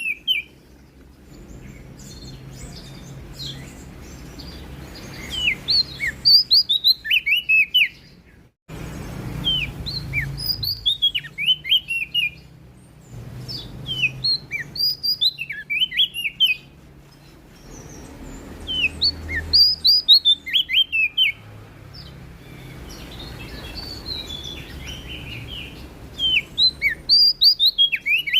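Prenjak daun songbird singing in repeated bursts of quick, high, down-slurred chirps, each burst lasting about two seconds and coming every few seconds. A low steady hum runs underneath.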